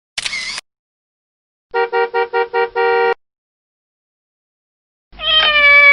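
Separate sound effects with silence between: first a brief hissy burst, then a horn-like tone beeping five quick times and then held for about half a second, then near the end a cat meowing with a slightly falling pitch.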